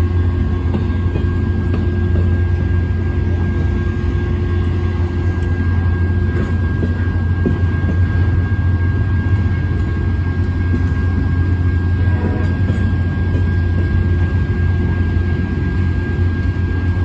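Freight train running by steadily: a constant low rumble with a steady high whine over it.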